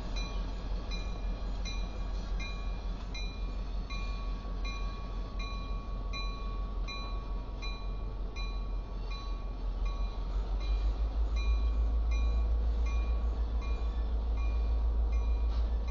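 Diesel locomotives rumbling as they pull a train of cars away, the rumble growing louder about two-thirds of the way through. A bell rings steadily about twice a second over it.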